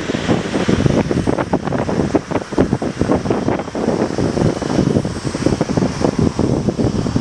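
Wind buffeting the microphone over the low rumble of a Boeing 777-200ER's jet engines.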